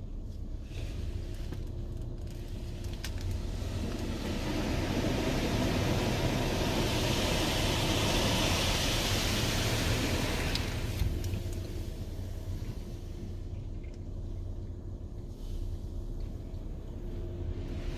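Automatic car wash machine running with a steady low hum, and a rushing hiss that builds over a few seconds and then fades away again.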